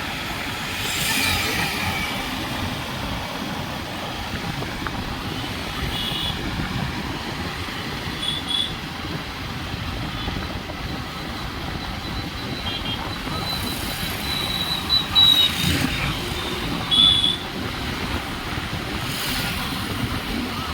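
Steady rain hiss with traffic passing on a wet road: vehicles swell past a few times, and several short high beeps sound in between.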